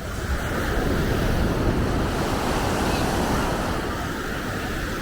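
Ocean surf breaking and washing up the beach, swelling about half a second in and easing off near the end, with wind buffeting the microphone underneath.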